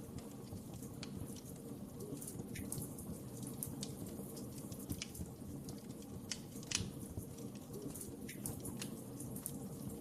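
Wood fire crackling: a steady low rumble of burning with irregular sharp pops and snaps, the loudest one about seven seconds in.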